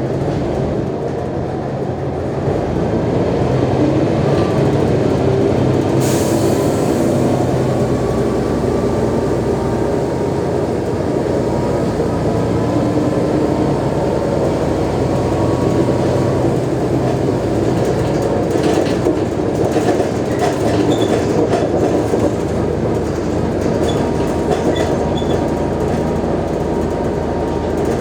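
Mercedes-Benz O345G articulated bus's diesel engine running under load, getting louder about two seconds in, with a short hiss about six seconds in. The recorder notes audible wear in the bus's sound, a sign of its degradation.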